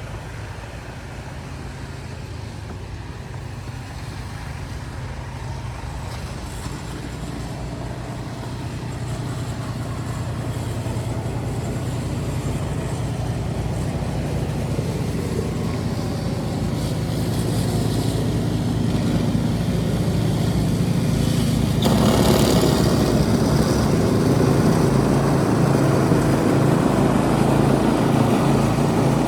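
A motor vehicle's engine running with a steady low hum that grows gradually louder, with a sudden rise in wider rushing noise about two-thirds of the way in.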